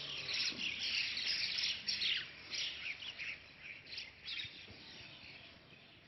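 Many small birds chirping at once, quick overlapping high calls that thin out over the last second or so.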